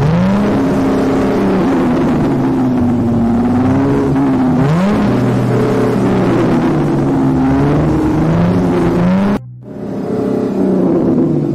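Sports car engine revving and accelerating, its pitch sweeping up and falling back several times. The sound drops out briefly near the end, then resumes.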